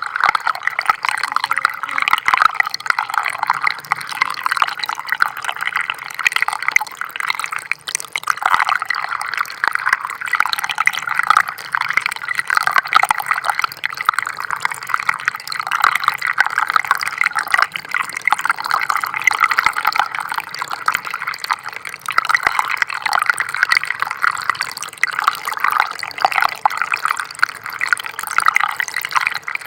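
Small stream of water trickling and splashing in a dense, bubbling patter that swells and eases every few seconds.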